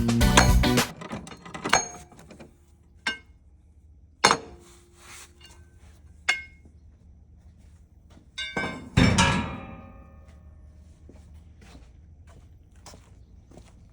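Background music stops about a second in. Then a series of separate hard knocks and clinks from metal parts or tools being handled, some ringing briefly, with the loudest cluster about nine seconds in.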